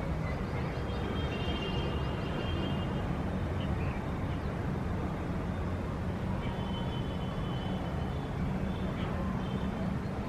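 Steady low rumble of distant city traffic, with birds chirping over it in two short spells, about a second in and again past six seconds.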